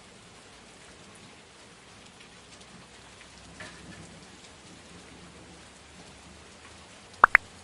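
Steady rain falling, an even hiss with faint scattered drop ticks. Near the end come two quick, loud rising chirps in a row, the loudest sound here.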